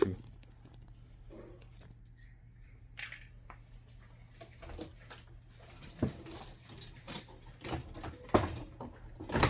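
Scattered knocks and clatter of dishwasher parts being handled and fitted as the tub assembly is put back together, the loudest knocks about six and eight seconds in.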